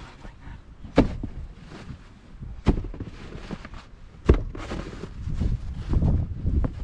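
Snow being shoveled by hand: scraping and crunching with three sharp knocks, about a second and a half apart, like a shovel striking the ground.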